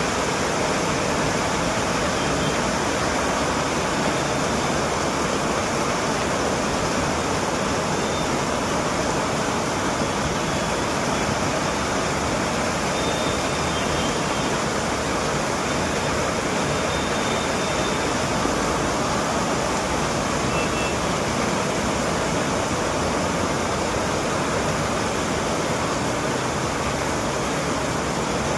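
Heavy rain pouring steadily, a dense, even hiss of water that neither builds nor lets up.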